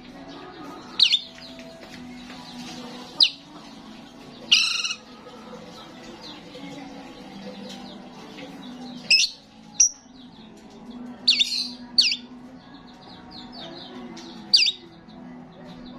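Starling calling: loud, sharp, short squawking calls repeated irregularly, about seven in all, with softer chatter between them.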